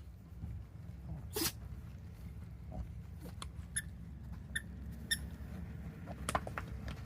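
A dog making a few short, sharp sounds, the loudest about a second and a half in and several briefer high ones later, over a steady low hum.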